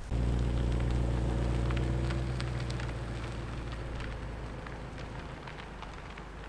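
BMW M5 Competition's 4.4-litre twin-turbo V8 running with a low, steady rumble that slowly fades. Light crackling runs over it.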